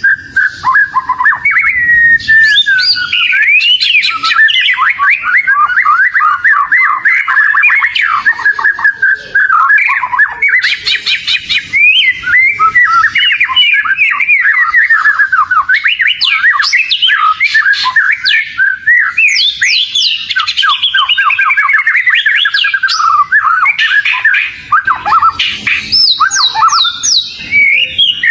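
Oriental magpie-robin (kacer) in full song: a loud, continuous, fast and varied run of whistled notes and quick pitch slurs with hardly a pause.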